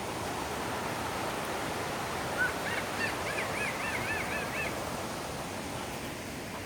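Steady rush of waterfall water, with a bird calling briefly in the middle: a quavering call whose pitch rises and falls about three times a second.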